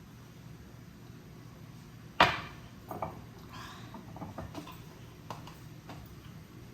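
Household objects being handled: one loud, sharp clack about two seconds in, then several lighter knocks and clinks.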